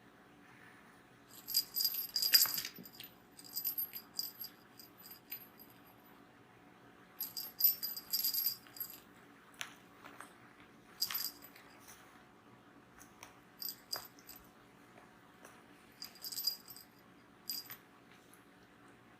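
A bell-and-rattle cat toy jingling in irregular bursts as a kitten plays with it, about seven clusters of quick shakes with pauses between.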